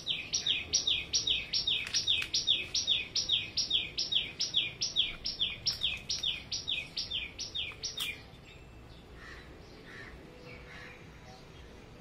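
A small bird calling close by: a loud, rapid series of sharp high notes, each sliding downward, about four a second for some eight seconds, then stopping abruptly. Fainter chirps follow.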